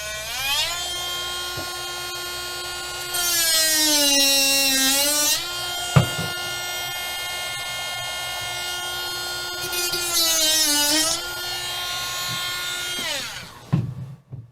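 A small electric motor running steadily, starting suddenly and stopping about 13 seconds in. Its pitch sags twice while it gets louder and rougher, and there is a sharp click about six seconds in.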